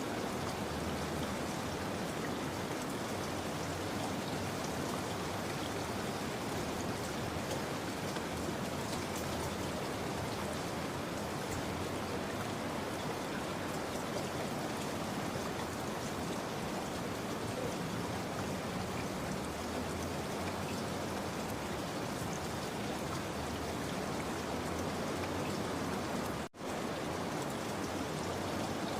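Steady rain falling, an even hiss of drops. It drops out for an instant near the end.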